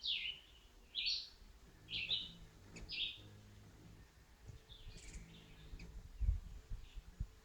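A bird repeating short, sweeping chirps about once a second, fading after a few seconds, with low thumps on the microphone in the second half.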